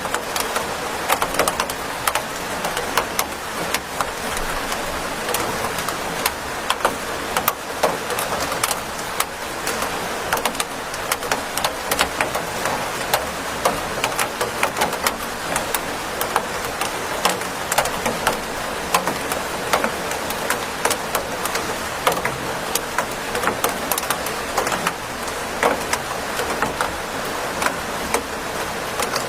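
Steady rain with a constant hiss and many sharp, irregular ticks of drops striking a surface.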